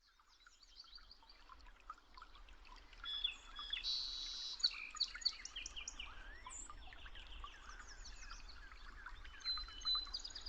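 Many small birds chirping and tweeting at once, in quick, overlapping high calls, a little louder for a couple of seconds near the start. A faint low hum runs underneath.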